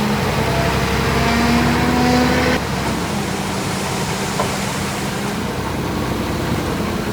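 Heavy diesel engine of a dump truck or bulldozer working under load, its pitch climbing slightly before it eases off abruptly about two and a half seconds in, then running steadily.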